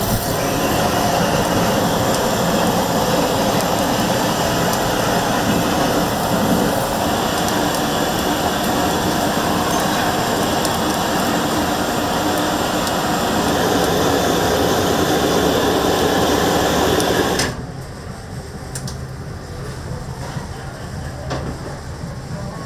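Loud steady rushing noise, machine-like, that cuts off suddenly about seventeen seconds in, leaving quieter background noise with a few light clicks.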